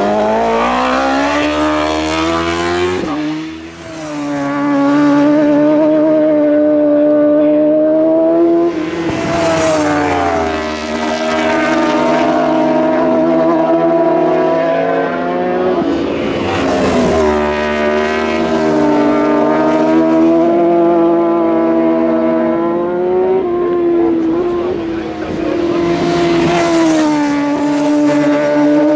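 Superbike racing motorcycle engine running hard at high revs. Its pitch holds, then steps and bends with gear changes and throttle, with a sharp drop about three and a half seconds in. Loud swells of noise come three times.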